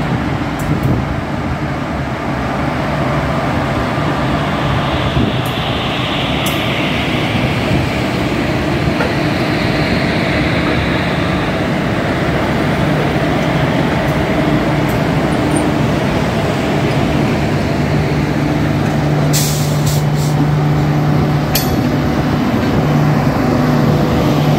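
Indian Railways passenger train rolling slowly past as it pulls out of a station, its coach wheels giving a steady rumble on the rails. A hiss runs for several seconds early on. A steady low hum grows stronger in the last several seconds as the LHB generator car draws near, with a few sharp clicks about twenty seconds in.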